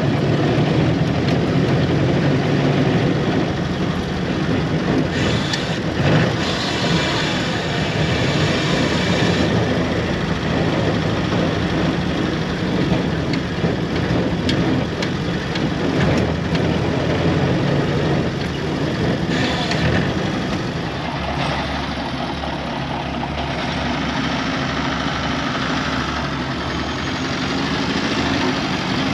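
Austin 7's small four-cylinder side-valve engine running steadily while the car is driven. The engine note changes about two-thirds of the way through.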